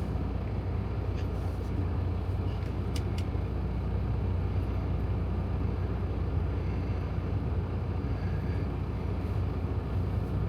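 Steady low rumble of a semi-truck's diesel engine heard inside the cab, with a few faint clicks.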